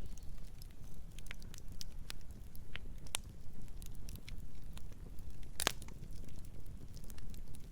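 Campfire burning: a low steady rumble of flames with irregular sharp crackles and pops of burning wood, the loudest pop about five and a half seconds in.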